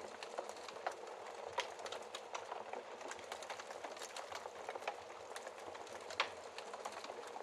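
Wood fire crackling in a fireplace: a steady hiss with irregular snaps and pops, a louder pop about a second and a half in and another about six seconds in.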